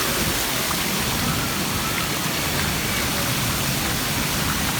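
Steady rush of falling, splashing water from pool water features, with faint distant voices.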